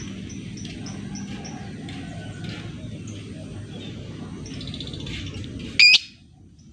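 Lovebird calling: a run of short, high ticking chirps, about three a second, then one loud, shrill call near the end.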